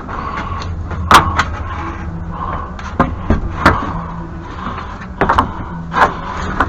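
A series of sharp knocks and bangs, about six spread irregularly, the loudest about a second in, over a steady low background noise.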